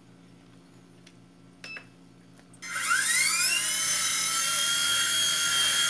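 Electric motor of a WLtoys V911-2 micro RC helicopter spinning up: a high-pitched whine starts suddenly about two and a half seconds in, rises in pitch over about a second, then holds steady as the rotor comes up to speed for takeoff.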